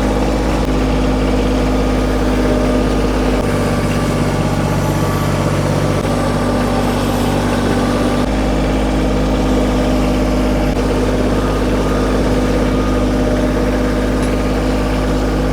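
Kioti diesel tractor engine running steadily under load while towing a railroad-tie drag over gravel. Its note shifts slightly about three seconds in and again about eight seconds in.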